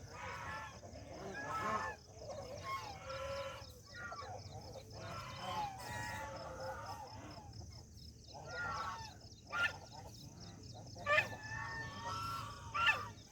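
A flock of geese honking and calling, many overlapping calls, with a few sharper, louder honks toward the end.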